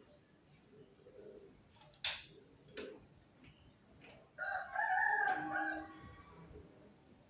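A rooster crowing once, about four seconds in, the loudest sound here. It is preceded by two short sharp taps, with faint small birds chirping in the background.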